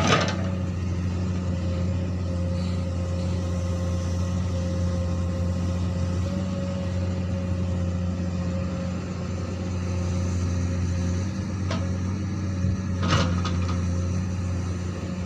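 Komatsu PC200 excavator's diesel engine running steadily, with a few short knocks of the machine working; the loudest knock comes about 13 seconds in.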